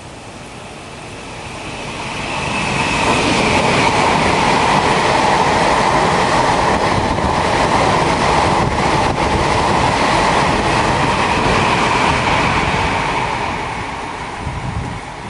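Taiwan Railways Tze-Chiang express train running through a station at speed without stopping. The rush of wheels on rails builds over about three seconds, holds steady for about ten with a few clacks near the middle, then fades as the train draws away.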